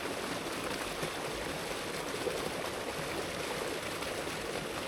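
Creek water rushing steadily, an even wash of flowing water with no breaks.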